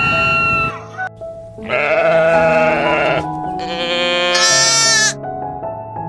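A goat bleating twice, two long wavering calls one after the other, over background music with steady held tones.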